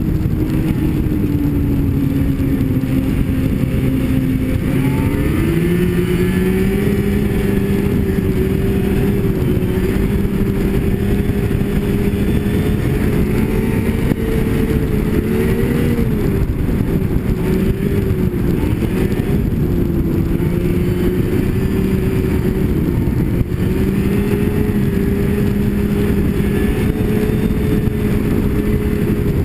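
Snowmobile engine running under way, its steady drone dipping and rising in pitch with the throttle: lower for the first few seconds, climbing about five seconds in, dipping briefly around the middle and rising again later. Wind and track noise rush underneath.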